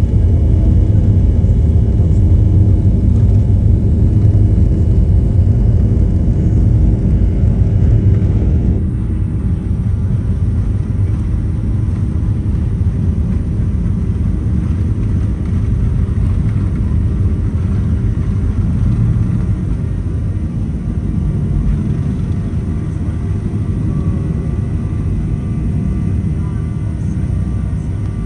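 Steady rumble of a Boeing 737-800's jet engines and airflow heard inside the passenger cabin. About nine seconds in, it drops slightly in level and then stays steady.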